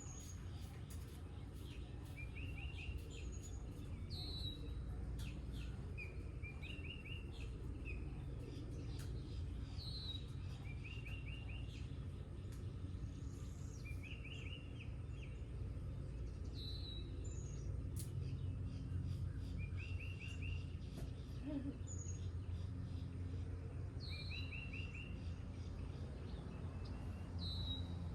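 A songbird singing the same short phrase every few seconds: a high slurred note, then a quick run of three or four lower notes. A steady low rumble runs underneath.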